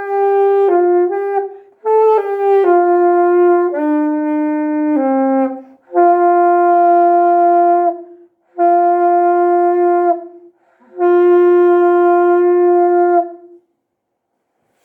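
Solo melody in a wind-instrument sound, one note at a time: a run of shorter notes, then three long, steady held notes, the last stopping a little before the end.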